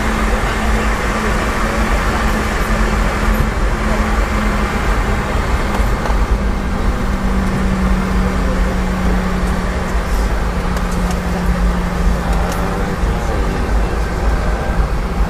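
Boeing 717-200 cabin noise: the rear-mounted BR715 turbofan engines and airflow running as a steady loud roar with rumble, while the aircraft rolls on the ground just after landing. A steady hum in it drops to a lower pitch about six seconds in, as the engines wind down.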